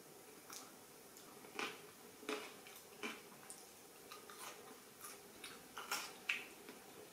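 Someone chewing sushi close to the microphone: soft, irregular mouth clicks and smacks, with the two loudest near the end.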